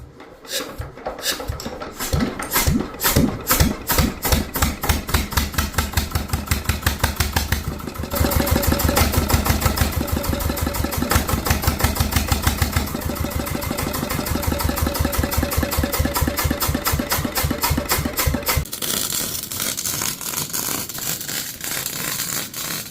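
Old Petter stationary engine being hand-started: a few uneven turns for the first couple of seconds, then it fires and runs with an even pulsing beat that quickens. About eight seconds in the sound becomes louder and fuller, and near the end the deep beat drops away, leaving a lighter rattle.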